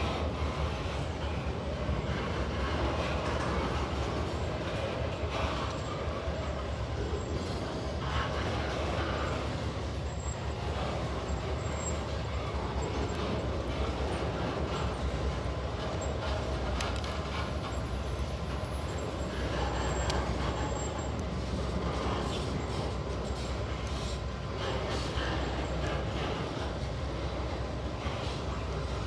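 Empty pulp freight train's flat wagons rolling past: a steady low rumble with frequent sharp wheel clicks.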